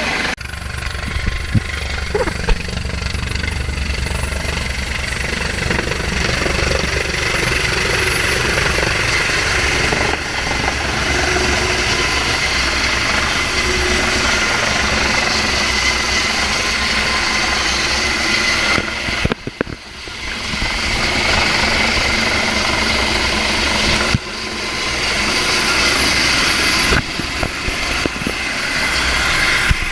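Rescue helicopter hovering close by, its rotor beating in a steady fast pulse under a loud rushing roar, mixed with strong wind. The sound drops briefly about two-thirds of the way through, then comes back.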